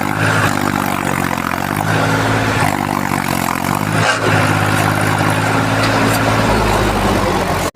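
Tractor engine running steadily at a loud, even level, cutting out abruptly for an instant near the end.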